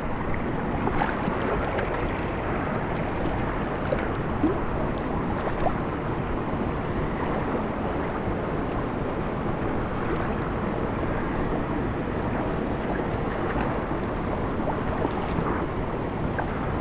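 Steady rush of water from a creek cascade or waterfall, with a few faint ticks over it.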